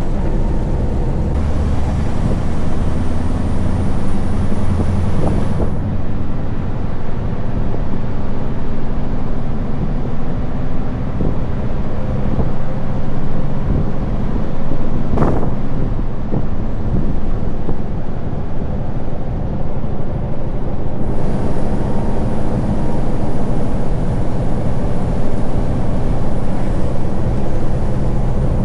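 Scania V8 lorry engine running under load, held to higher revs before gear changes. A short sharp sound, like an air hiss, comes about halfway through.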